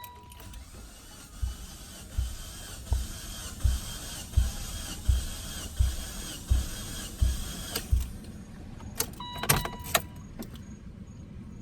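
Mitsubishi Evo X 4B11T four-cylinder being cranked on the starter with its spark plugs out and a compression gauge fitted. The starter whines steadily, with a rhythmic pulse about every three quarters of a second as the tested cylinder comes up on compression. The cranking stops near the end, followed by a few short beeps.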